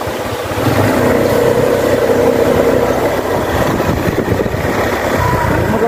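A motor vehicle's engine running steadily, a constant hum with low rumble.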